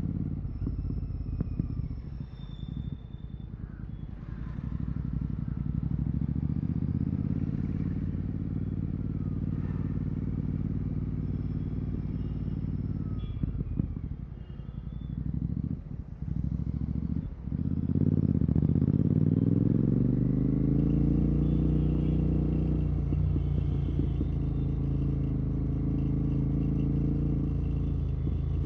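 Royal Enfield Continental GT 650's 648 cc parallel-twin engine through a Red Rooster aftermarket exhaust with no dB killer, running at low revs while the throttle is closed and opened a few times. About two-thirds of the way in, it revs up in a rising pull and holds a louder, higher steady note.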